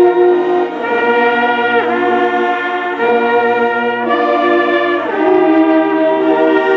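Slow brass music: held chords played together, moving to a new chord about every second.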